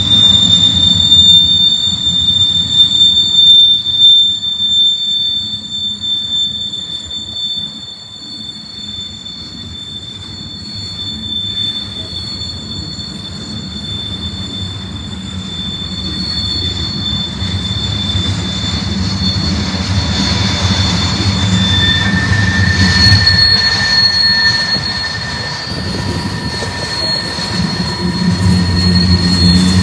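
Freight train cars rolling past with steel wheels squealing against the rail: steady high-pitched squeals over a low rumble of wheels on track. The rumble eases about a third of the way through and builds again near the end, when a second, lower squeal joins in.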